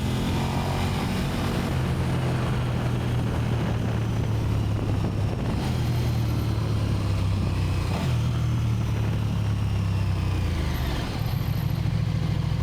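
KTM 1290 Super Duke R's LC8 V-twin on its stock exhaust, running steadily at low revs. The note dips briefly about two-thirds of the way through, then settles again.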